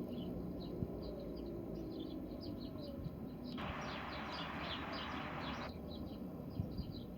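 Small birds chirping over and over in quick short notes, above a low background rumble. A steady hiss comes in for about two seconds midway.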